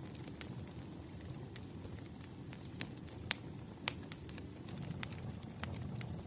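Burning firewood crackling: irregular sharp pops and snaps, a dozen or so, over a steady low rustle of the flames.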